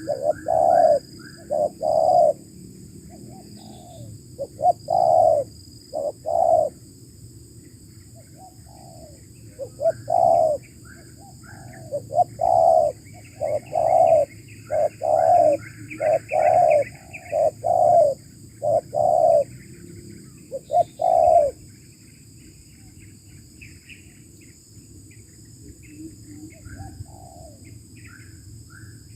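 Spotted dove cooing: loud rounded coo notes repeated in short phrases, which stop about two-thirds of the way through. Small birds chirp faintly in the background.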